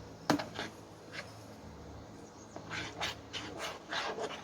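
A spoon stirring and scraping slime of clear glue and water in a small plate. There is a sharp click near the start, then, from a little before the three-second mark, quick, even scraping strokes about three a second.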